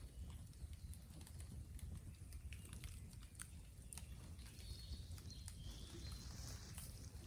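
Bamboo bonfire crackling faintly, with scattered small snaps and ticks over a low rumble, and a bird calling a few times briefly around the middle.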